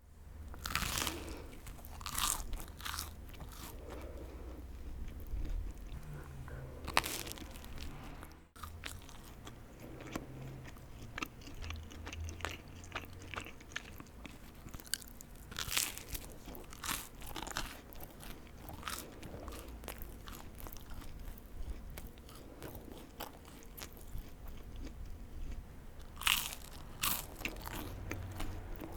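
Crunchy food being bitten and chewed close to the microphone: irregular sharp crunches over a low rumble, with a brief break about eight and a half seconds in.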